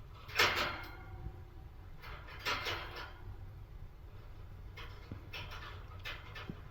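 Budgies chirping in short bright calls: a loud one about half a second in, another about two seconds later, then a run of quick chirps near the end.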